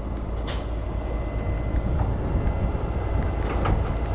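Large engine of heavy recovery equipment running steadily with a deep rumble, with a short hiss about half a second in and a few light clicks later.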